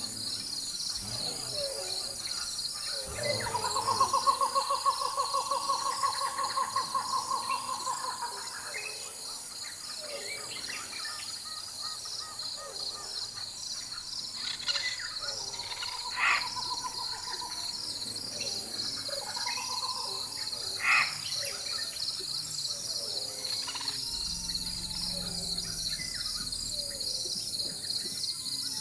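Rainforest ambience: a dense insect chorus keeps up a steady, pulsing high buzz while birds call over it. A long rapid trill starts about three seconds in and lasts around five seconds, and a few short calls follow around the middle.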